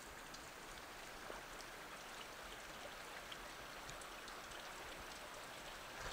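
Creek water running over rocks, a steady faint rush with a few small ticks.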